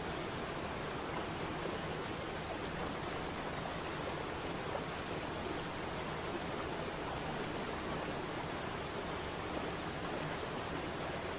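Steady rushing of falling water from a waterfall, an even wash of noise that does not let up.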